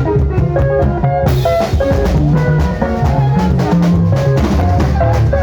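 Sungura band music: a drum kit keeping a steady beat under a busy, moving bass line and quick, short melodic notes above.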